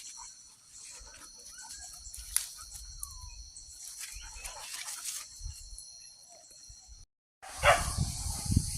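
Steady high-pitched insect drone of the forest, with scattered faint chirps and clicks. It cuts out abruptly about seven seconds in and returns with louder rustling and handling noise.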